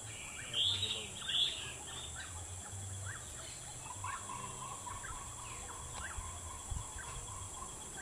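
Wild birds calling: two loud harsh calls about half a second and a second and a half in, then a scattering of short rising chirps and a held note, over a steady high insect hum.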